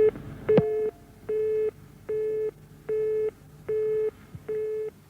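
Telephone busy signal on a Soviet-era phone line after the other party hangs up: a steady run of short beeps of one low tone, a little under one a second. There is a single click about half a second in.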